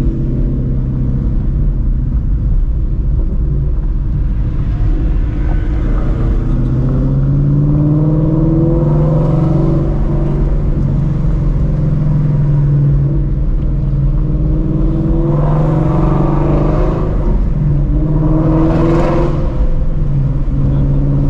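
Straight-piped Ford Mustang Shelby GT350's 5.2-litre flat-plane-crank V8 with long-tube headers, running at low revs on light throttle. Its pitch rises slowly from about six seconds in, then holds. There are two brief louder swells near the end.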